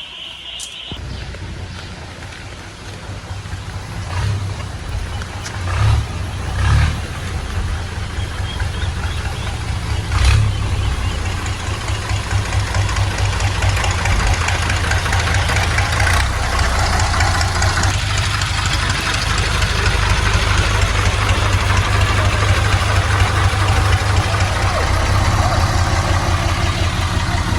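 An engine running steadily with an even low pulse, starting about a second in, with a few louder knocks along the way.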